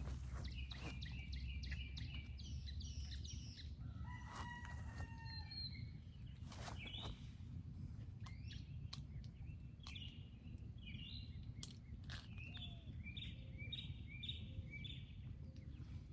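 Roosters and chickens calling faintly: one held crow-like call about four seconds in, and runs of short, quick chirping or clucking notes through the rest, over a steady low rumble.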